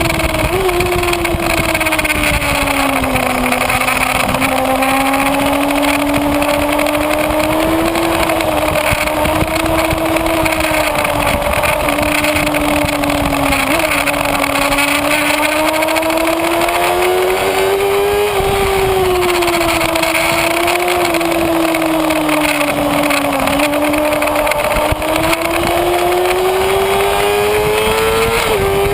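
Kawasaki Ninja ZX-6R inline-four engine running under way at speed, recorded onboard. The engine note dips, wavers up and down, drops suddenly about 18 seconds in, then climbs steadily over the last few seconds, over a constant rush of noise.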